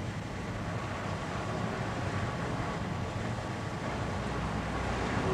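Steady low rumble of a ship under way, mixed with wind.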